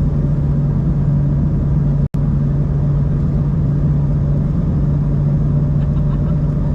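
Steady cabin noise inside an Embraer 190-E2 airliner: engine and airflow rumble under a strong, even low hum. The sound cuts out completely for a split second about two seconds in.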